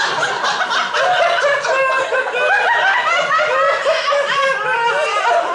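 Audience laughing, many voices overlapping steadily.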